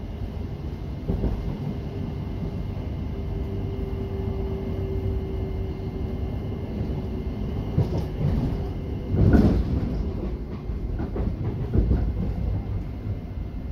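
Cabin running noise of a South Western Railway Class 707 electric multiple unit in motion: a steady rumble of wheels on rail, with clicks over the rail joints. A louder clatter of the wheels comes about nine seconds in.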